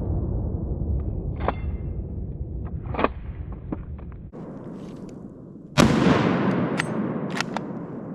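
Gunshots at a deer. The rolling echo of one shot dies away, a few light metallic clicks follow, and a second loud shot about six seconds in echoes away.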